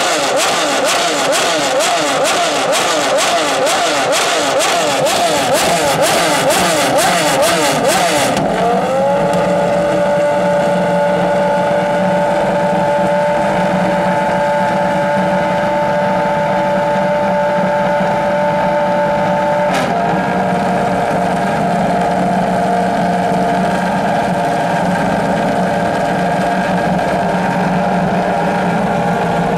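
Pagani Zonda Revolución's AMG V12 revved in quick repeated blips with popping from the exhaust for about eight seconds. The revs then rise and are held at a steady pitch for the rest, with a single click about twenty seconds in.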